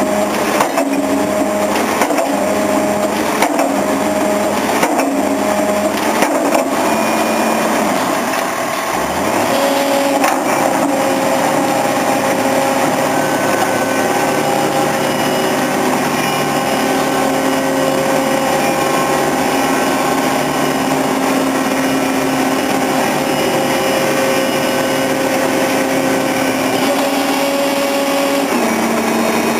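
Concrete pile-driving rig at work: the hammer strikes about once a second over a steady engine for the first several seconds. The blows then stop and the rig's engine runs on steadily, shifting in pitch near the end.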